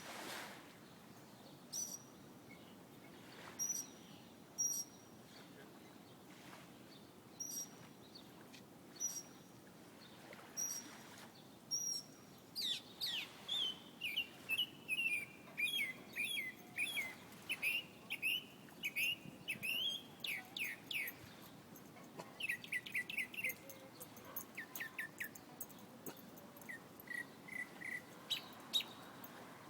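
A bird singing. For the first twelve seconds it gives single sharp high chirps about a second apart. Then it breaks into a fast run of quickly falling notes lasting several seconds, followed by shorter trills and scattered notes.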